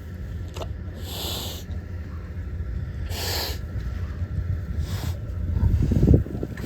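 Pigs making short breathy huffs, four in all, over a steady low rumble, with a louder rustle shortly before the last one.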